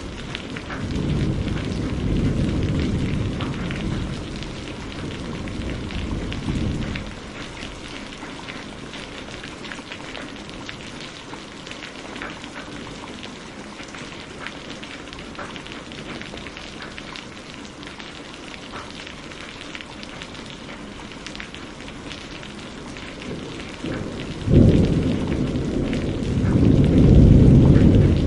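Steady rain pattering, with two rolls of thunder. The first rumbles in about a second in and dies away after about six seconds. The second, louder one starts suddenly near the end and is still rolling as it finishes.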